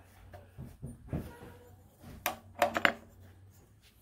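Air-cleaner cover and its round metal cap being fitted back onto a Honda GX160 engine by hand: a few soft knocks, then a quick cluster of sharp clicks and taps a little past halfway.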